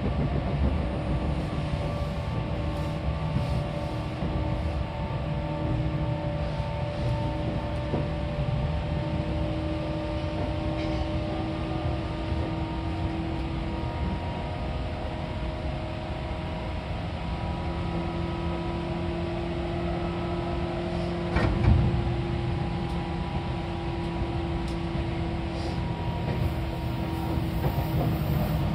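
Seibu 4000 series electric train running, heard inside the carriage: a steady low rumble from the wheels and track with motor and gear whine tones that slowly shift in pitch. A single sharp knock about two-thirds of the way through is the loudest moment.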